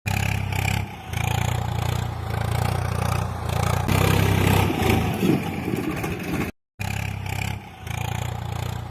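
A motor running steadily with a low hum and clattering, scraping noise. It breaks off abruptly about two-thirds through and starts again.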